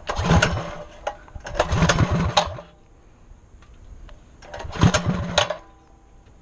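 An engine revving in three short bursts of rapid firing, about a second apart and then again near the end, dropping back to a low running sound between them.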